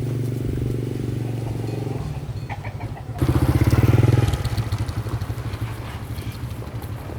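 A small petrol engine running steadily, revving up for about a second around three seconds in, then easing back down.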